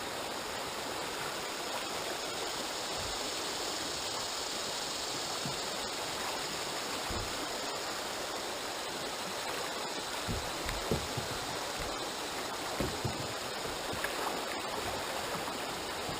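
River water rushing steadily over a shallow stretch, with a few soft low thumps in the second half.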